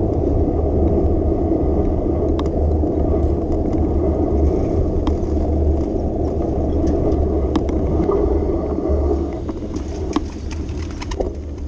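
Steady low rumble of a bicycle riding along city streets, with scattered small clicks and rattles. It eases a little near the end.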